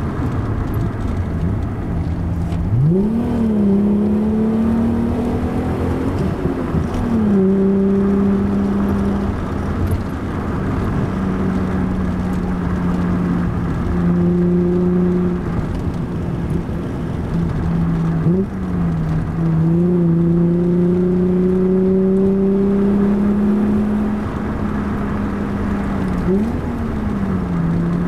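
Alfa Romeo 75's 3.0-litre Busso V6 engine heard from inside the cabin, pulling steadily along a country road. Its pitch climbs gradually as the car gathers speed and dips sharply before picking up again about four times, as the driver lifts off and gets back on the throttle or changes gear.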